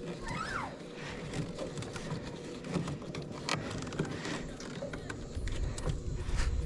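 Small electric boat motor running at full throttle on a weak 6-volt battery, a faint steady hum under scattered clicks and knocks, with a low rumble building near the end.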